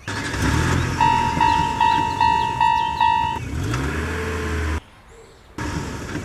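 A railroad crossing warning bell ringing, six quickly decaying strikes about two and a half a second, over a low vehicle rumble that rises in pitch. Everything cuts off suddenly near five seconds in, then the rumble comes back.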